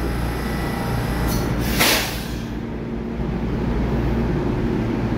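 EMU3000 electric multiple-unit train pulling out of the platform, its cars rolling past with a steady rumble. A short hiss of air rises and stops about two seconds in.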